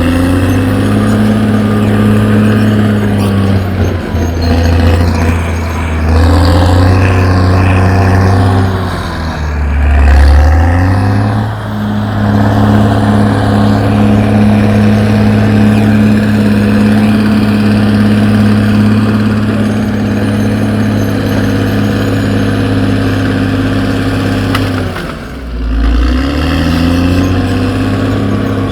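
Diesel engine of a CAT D6R XL bulldozer running hard at steady high revs while it works. Its pitch dips and recovers twice, about a third of the way in and again near the end.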